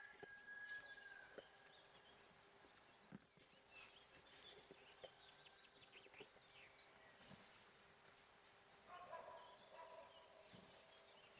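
Faint bird calls, a short one near the start and a longer one with several tones near the end, among a few light knocks in near quiet.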